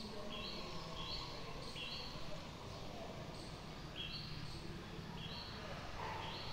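A bird chirping repeatedly: short two-note calls, a lower note stepping up to a higher one, about half a dozen of them at uneven intervals, over a steady low background rumble.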